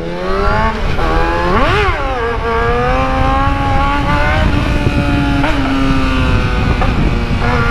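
Yamaha YZF-R6 sport bike's inline-four engine accelerating: its pitch climbs over the first couple of seconds, jumps and falls back near two seconds in at a gear change, then holds a steady note as the bike cruises, with a brief dip about five and a half seconds in.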